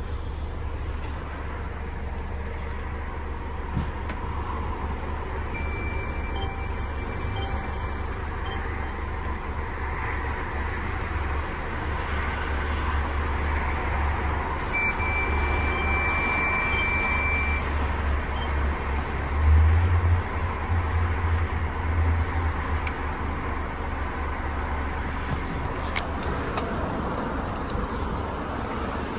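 Mercedes-Benz Sprinter van's diesel engine idling steadily, with a brief louder low surge about twenty seconds in. Two high electronic warning tones from the van, each lasting about two and a half seconds, sound about six and fifteen seconds in.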